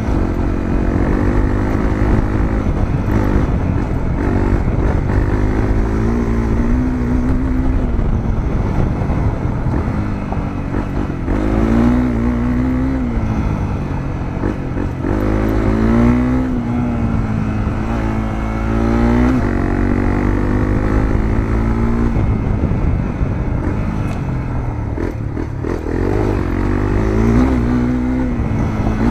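Honda CRF250L single-cylinder four-stroke engine with a Moriwaki aftermarket muffler, heard onboard while riding. The engine note rises and falls over and over as the rider accelerates and backs off, with clear climbs in pitch around the middle and again near the end.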